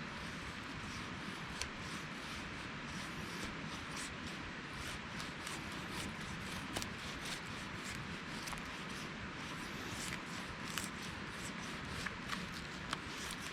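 Knife blade shaving thin curls off a stick of wood to make a feather stick: irregular scraping strokes with sharp little clicks, over a steady hiss.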